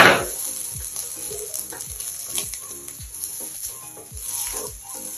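Rice and egg sizzling in a wok while a spatula stirs and turns them, with a sharp knock of the spatula against the pan right at the start. Background music with a steady beat plays throughout.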